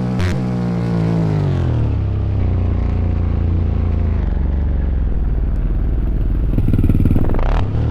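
Dirt bike engine. Its pitch falls over the first two seconds as it slows, then it runs low and steady. It revs up louder briefly near the end, then drops off.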